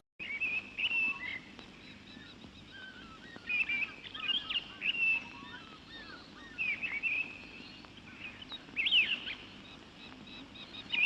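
Several wild birds chirping and whistling, short calls and quick up-and-down notes coming in clusters, over faint background noise.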